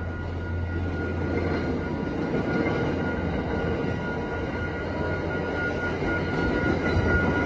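MBTA commuter rail coaches rolling past a grade crossing, a steady rumble of wheels on the rails that grows a little louder near the end, with a thin steady high tone running through it.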